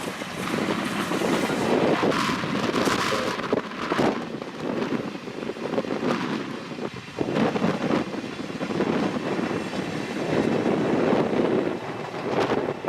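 Strong gusty wind buffeting the microphone, rough and loud, swelling and dropping every second or two, with a passing steam-hauled train under it.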